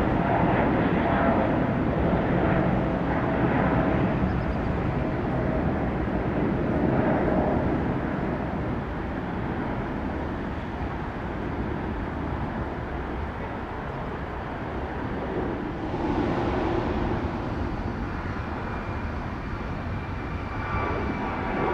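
Jet airliner engines on a departure climb: a steady rushing rumble with a tone that slowly drops in pitch and fades over the first half, then swells again near the end.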